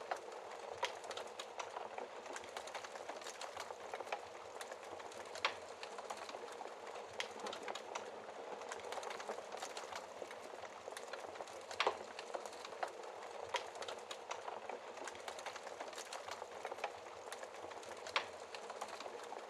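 Wood fire crackling in a fireplace, with frequent small snaps and a few louder pops, over a steady hiss of rain.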